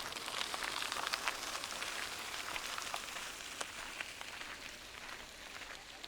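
Crunching footsteps on a trail: a dense crackle of many small ticks, loudest at first and fading toward the end.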